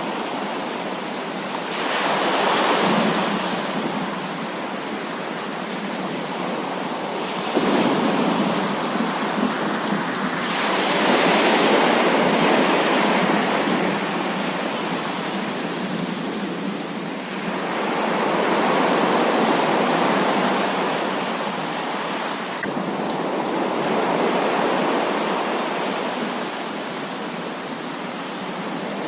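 Heavy rain falling steadily, with rolling thunder that makes the sound swell louder about four times.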